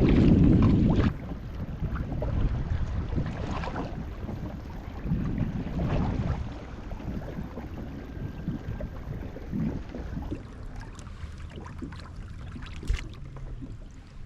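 Wind buffeting the microphone in gusts while a kayak moves across the water. The wind dies down in the last few seconds, leaving a few light knocks.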